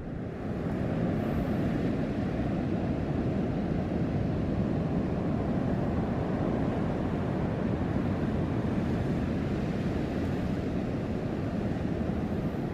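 Pacific Ocean surf at king tide, waves washing in through a narrow rocky channel, heard as a steady low rush of water with no separate crashes standing out.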